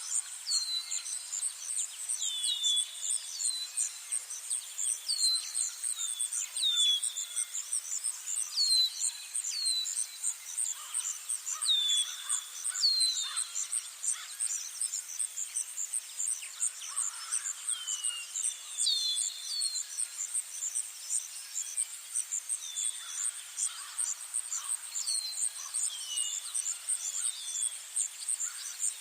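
A steady, high, pulsing insect trill, with short falling bird chirps repeated every second or two over it.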